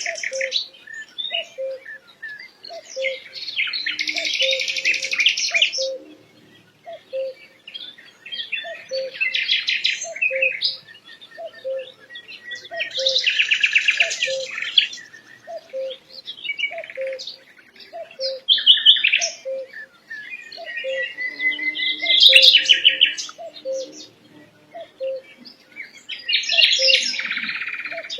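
Songbird singing loud phrases of rapid trills and chirps, one every few seconds, over a low, evenly repeated note sounding about one and a half times a second.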